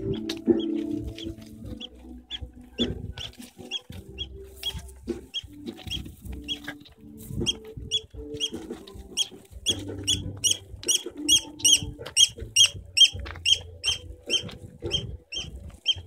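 A bird calling over and over in short, high chirps, about two or three a second, growing louder and closer together from about halfway. Low held tones hum underneath.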